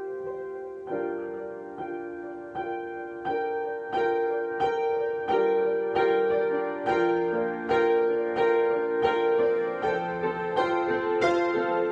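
Improvised solo piano music: a steady line of struck notes, about three a second, over held lower notes, growing a little louder about four seconds in.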